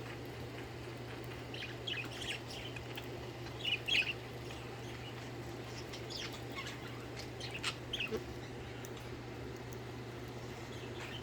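Pet budgerigars giving short, scattered chirps in small clusters every second or two, over a steady low hum.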